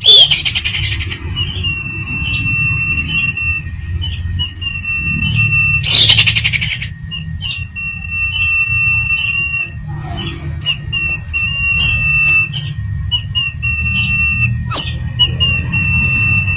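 Common iora (sirtu/cipow) singing: long drawn-out steady whistles, repeated, broken by harsh squawky bursts at the start, about six seconds in and near the end, over a steady low rumble.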